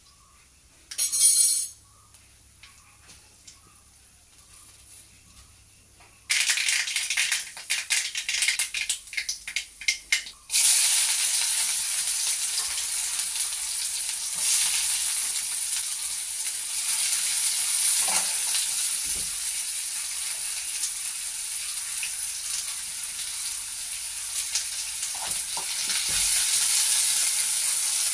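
A brief sharp noise about a second in. Then mustard seeds crackle and spatter in hot oil in an aluminium kadai for a few seconds, followed by a steady sizzle of sliced onions frying in the oil, with a few knocks of the stirring spoon against the pan.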